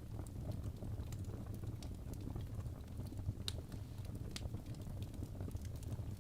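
Wood fire burning in a fireplace: a steady low rumble of the flames with scattered crackles and pops from the logs, one sharper pop about three and a half seconds in.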